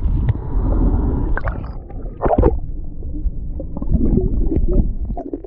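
Low, steady rumbling of wind and water around a small boat at sea, with a few irregular sloshing or knocking sounds, the loudest about two seconds in.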